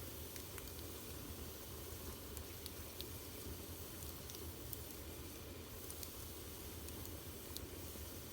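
Wood fire burning in a fireplace: a steady soft hiss with a few faint, scattered crackles and pops.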